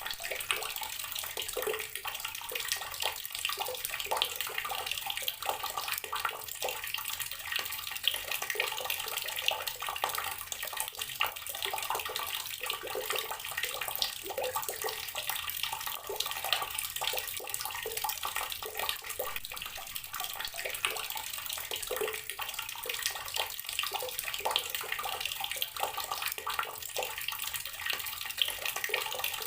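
Water running steadily from an outdoor garden tap, splashing and spattering as it falls.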